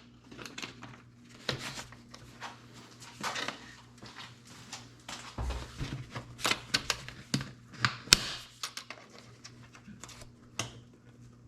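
Hands working the air filter housing on a Branson 3725h compact tractor: a scattered series of clicks and knocks with some rustling as the housing's clasps are worked and snapped shut, over a faint steady hum.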